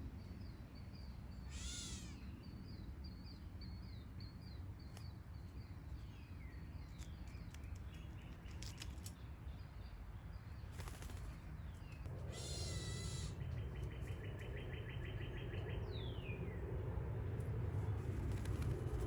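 Several backyard songbirds calling: a string of short high chirps and downslurred notes, a couple of harsh, scratchy calls about eleven and thirteen seconds in, and a rapid trill just after, over a steady low rumble that grows louder in the second half.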